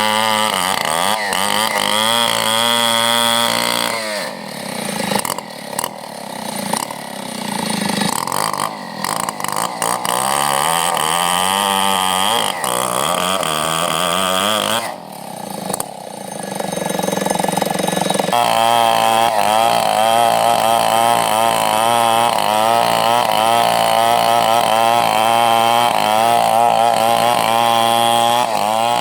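Chainsaw running at high revs, then revving unevenly with drops in speed from about four seconds in. From about eighteen seconds it runs at full speed again, its pitch wavering as it cuts wood.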